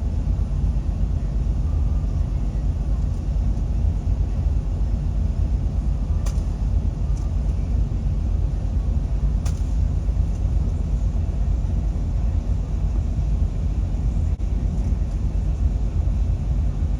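Steady low rumble, with two sharp clicks about six and nine and a half seconds in.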